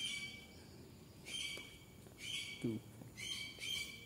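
A bird giving a series of short, harsh squawking calls, about one a second.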